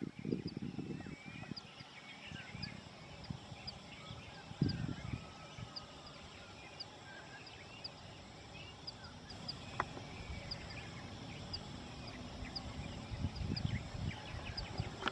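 Many small birds chirping and twittering in the forest on a volcano slope, with one high note repeating evenly about three times every two seconds. Wind gusts buffet the microphone with a low rumble near the start, about four and a half seconds in, and again near the end.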